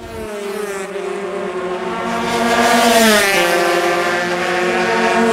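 Racing motorcycle engine at high revs passing by: it grows louder, peaks about three seconds in, and its note drops in pitch as it goes past.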